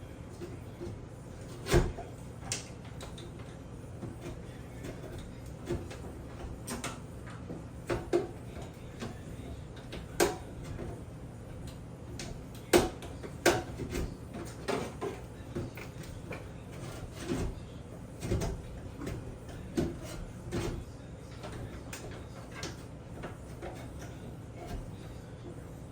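Irregular clicks, knocks and rattles of hands working on a bathroom exhaust fan and its parts, a few knocks much louder than the rest, over a steady low hum.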